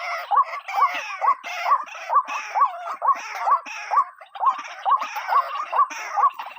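White-breasted waterhen (ruak-ruak) calling: a fast, steady series of short hooked croaking notes, about two or three a second, with harsher overlapping calls above them.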